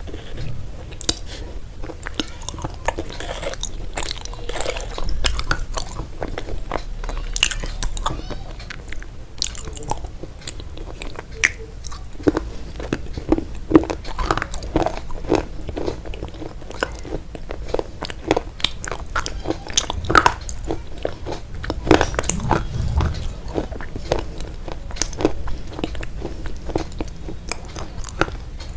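A person biting and chewing crunchy food: a continuous run of irregular sharp crunches.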